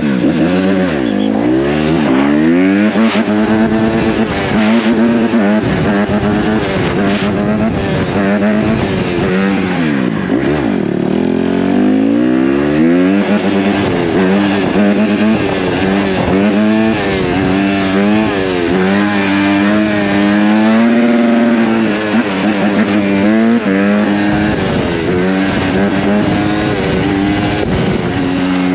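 A 150cc dirt bike's engine being ridden hard, its pitch climbing and dropping over and over as the throttle is opened and closed and it runs through the gears.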